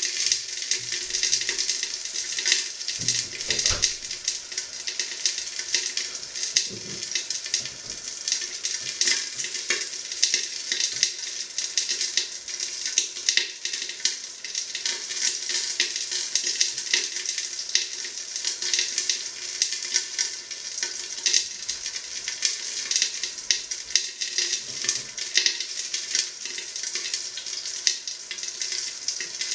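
Chicken legs frying in a hot pan: a steady sizzle with a dense crackle of small spitting pops of fat.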